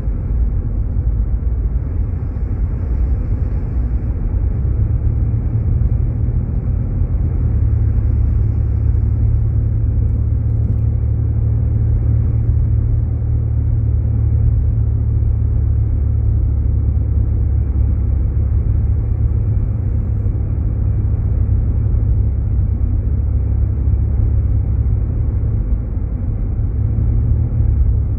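Steady low rumble of road, tyre and engine noise heard inside a Jeep Grand Cherokee's cabin as it drives along.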